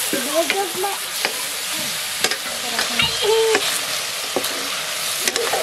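Chicken pieces frying in a metal wok with a steady sizzle, stirred with a steel spoon that scrapes and clicks against the pan.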